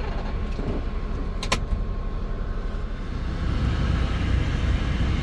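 Semi-truck running, heard from inside the cab as a steady low engine and road rumble that grows louder about three seconds in. A single sharp click sounds about a second and a half in.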